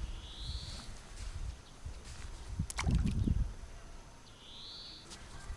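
A short, slightly rising call is repeated twice about four seconds apart, most likely a bird. It plays over low rumbling handling noise, with a cluster of clicks and a louder low thump near the middle.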